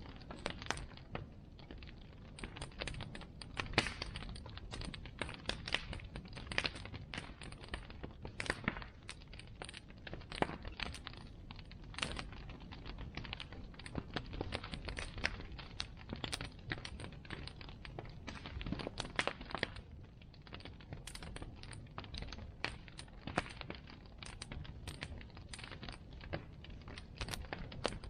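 Bonfire crackling: irregular sharp pops and snaps of burning wood, several a second, over a low steady rumble.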